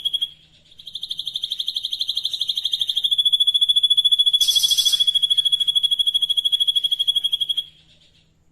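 Songbird from a masteran recording singing a 'tembakan': a fast, even trill of rapid notes held on one high pitch. It breaks off for a moment near the start, runs on with a brief hissy burst about halfway, and stops shortly before the end.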